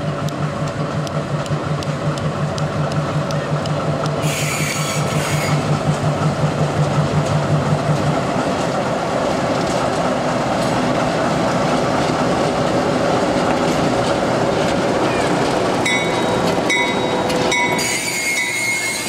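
Diesel switcher locomotive running past at low speed pulling passenger cars, its engine throbbing in a steady pulse that fades after about eight seconds as it goes by. Steel wheels rolling on the rails underneath, with a brief high squeal about four seconds in and a sustained high squeal near the end.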